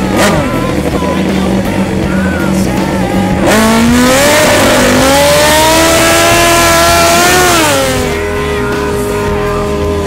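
Drag-racing motorcycle engine idling, then revved hard and held at high revs for about four seconds with a loud hiss of spinning tyre, as in a burnout. It then drops back to a steady idle.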